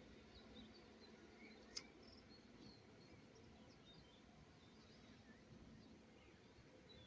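Near silence outdoors, with faint scattered bird chirps and a single short click a little under two seconds in.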